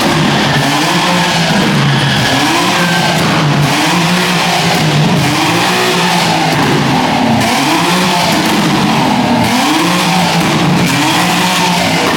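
A car engine revving up and down over and over, about once a second, with tyre squeal under it: a car spinning its tyres in a burnout or slide.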